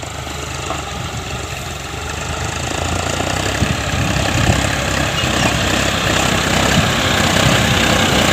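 John Deere 5050D tractor's turbocharged diesel engine running steadily while ploughing, growing steadily louder.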